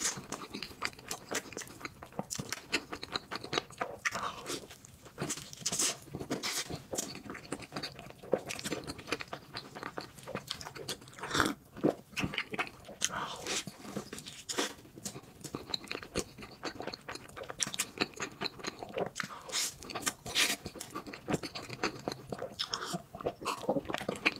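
A person chewing a mouthful of soft crepe with banana, chocolate spread and green tea spread: a steady run of wet mouth clicks and smacks.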